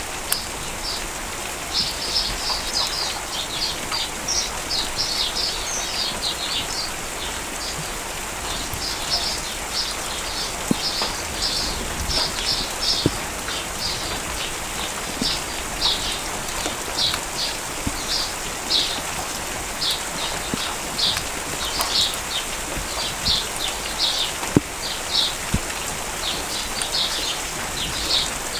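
Steady rain falling, with a small bird repeating quick series of short, high chirps throughout, and scattered drip ticks.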